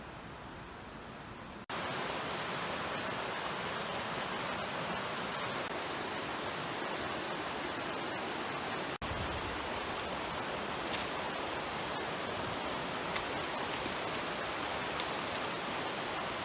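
Steady rushing of a creek's flowing water, coming in louder after a short break about two seconds in and briefly cut off again around nine seconds.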